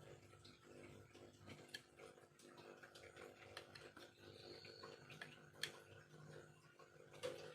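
Faint, irregular clicks and light taps of a small carving knife working bamboo, a few sharper clicks standing out near the end.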